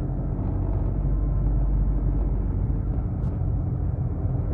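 Taxi engine and road noise heard from inside the cab while driving: a steady low rumble, with a faint click about three seconds in.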